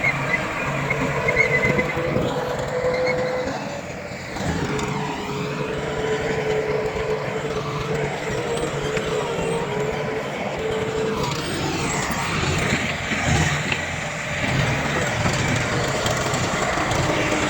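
Heavy diesel earthmoving machinery running, with a steady whine over the engine noise for several seconds in the first half.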